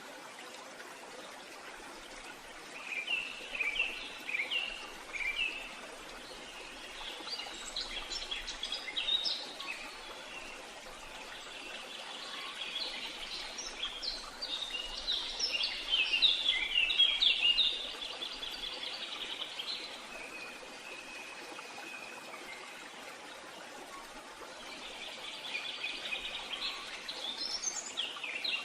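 Songbirds chirping and trilling in several bursts over a steady background hiss, the busiest and loudest stretch about 12 to 18 seconds in.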